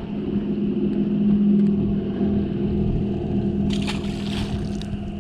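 Jet boat's outboard motor running at a steady low speed, with a short burst of hissing noise about four seconds in.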